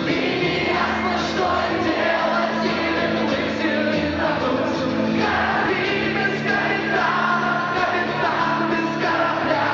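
Rock band playing a song with singing.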